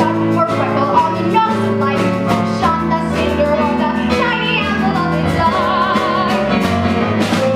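A solo voice singing over instrumental accompaniment, with a long note held with vibrato about two-thirds of the way through.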